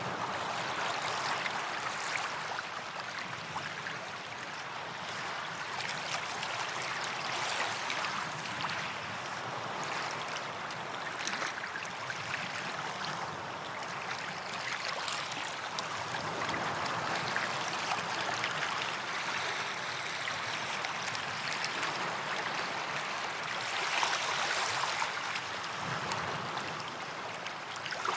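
Small waves washing onto a white-sand beach: a steady hiss of surf that swells and eases gently, with one wave a little louder near the end.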